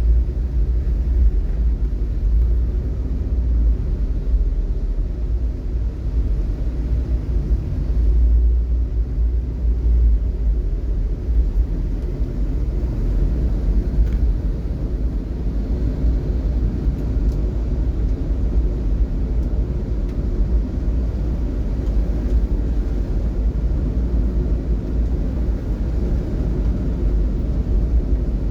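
Steady low rumble of a vehicle driving in traffic, with an even hiss of road noise above it.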